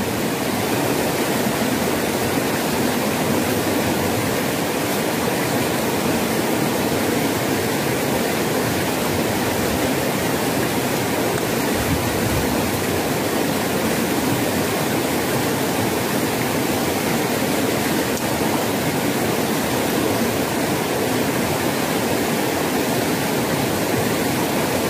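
Rushing water of a rocky stream, a steady, even rush that does not change.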